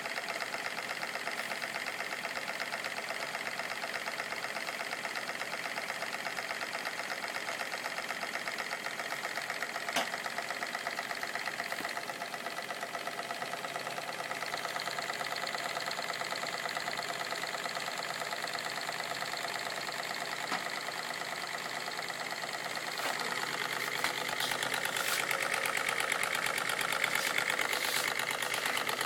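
Steam engine with a piston valve running at a steady, fast beat, with one sharp click about ten seconds in. It grows a little louder over the last few seconds.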